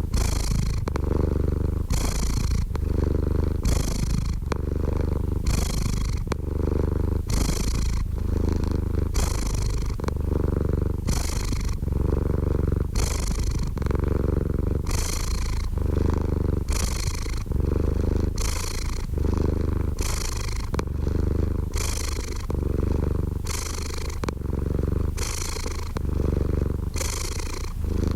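Domestic cat purring steadily and close up: a continuous low rumble whose tone shifts back and forth with the cat's breathing about every second and a half.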